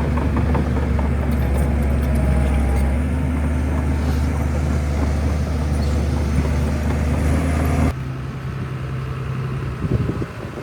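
Heavy diesel engine of a Shantui bulldozer running steadily with a deep, even hum. About eight seconds in, it cuts off abruptly to a quieter, rougher background.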